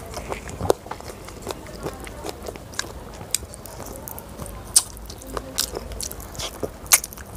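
Close-miked chewing of a hand-fed mouthful of spicy Schezwan fried rice with chicken, with many short, sharp wet mouth clicks scattered irregularly through it, the loudest about five and seven seconds in.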